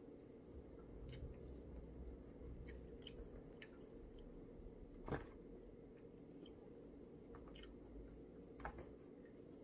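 Faint chewing and mouth sounds of a person eating chicken, with scattered small clicks and one sharper click about five seconds in.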